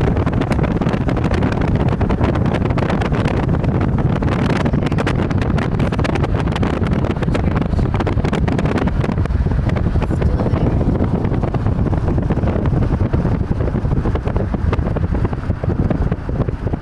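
Steady wind buffeting and rumbling on the microphone of a camera in a moving car, over the car's road noise.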